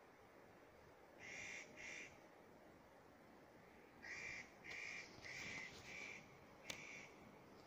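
A bird calling faintly with short harsh calls: two, a pause, then a run of five. A single sharp click near the end.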